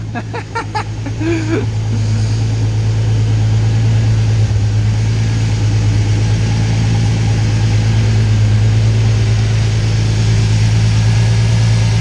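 Twin-turbo V engine in an MG Midget idling steadily on its first run after the build, with no lifter tap heard. A few short, faint sounds come over it in the first two seconds.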